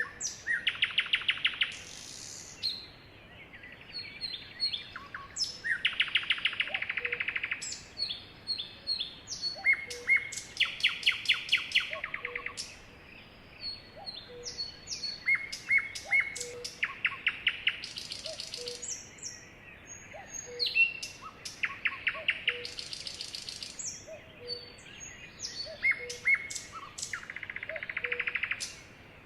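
Sparrows chirping, with several rapid trills of fast repeated notes a few seconds apart between short high chirps.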